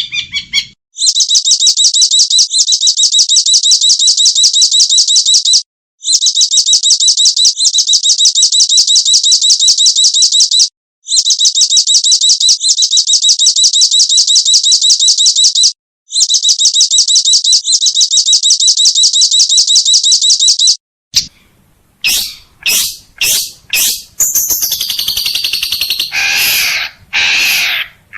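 Recorded songbird song: a very fast, even, high trill delivered in four loud bouts of about five seconds with short breaks, then about 21 seconds in a different, more varied song of separate sharp notes and sweeping phrases takes over.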